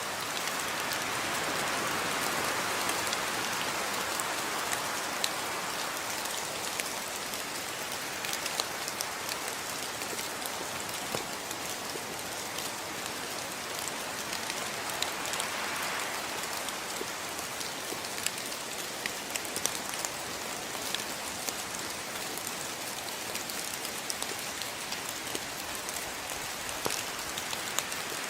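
Steady rain falling: an even hiss with the short ticks of single drops hitting a surface scattered all through it.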